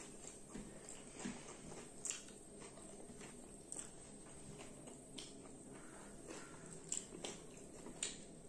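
Faint chewing and mouth sounds of two people eating chicken curry and rice by hand, with scattered short smacks and clicks.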